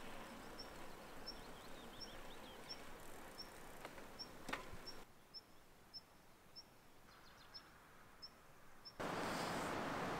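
Faint outdoor ambience in which a bird repeats one short high chirp about every two-thirds of a second, with another bird twittering faintly now and then. About nine seconds in, a louder steady rushing noise cuts in.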